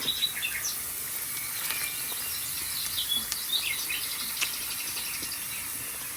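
Recorded birdsong played from a TV: several birds chirping and trilling in short, scattered calls over a steady high hiss.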